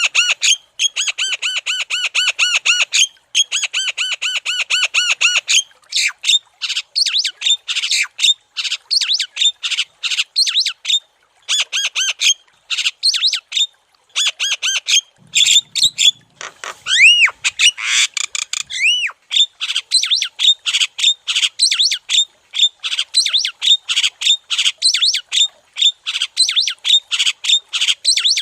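Javan myna (jalak kebo) singing vigorously in an unbroken stream. It opens with a fast run of identical harsh notes, then moves into varied chattering squawks with a few rising whistles a little past the middle.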